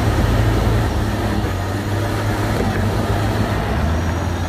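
Heavy truck's diesel engine running under load on an uphill climb, a steady low rumble with road noise.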